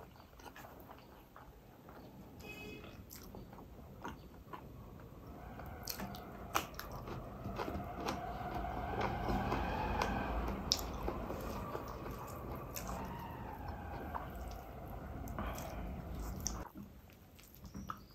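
Close-miked mouth sounds of a person chewing a mouthful of rice eaten by hand, with wet smacks and many small clicks, louder through the middle.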